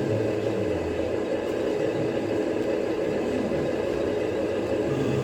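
Steady engine-like running noise from a radio-controlled model truck working at the tip, with no break or change in level.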